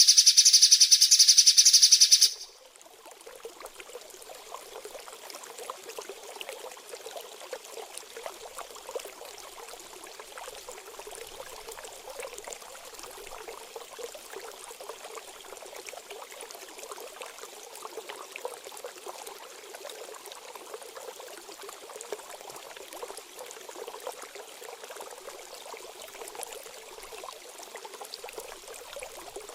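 A loud, high rapid rattle for about two seconds that cuts off suddenly, then a steady trickle of running stream water, the 'water therapy' sound played to cage birds.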